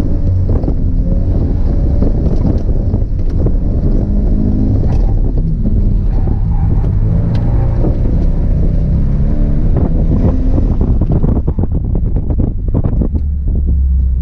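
Subaru BRZ's flat-four engine heard from inside the cabin, its pitch rising and falling as the car is driven hard through a coned course, over a heavy rumble of tyres running through slush with scattered knocks. Near the end the engine note drops away as the car slows.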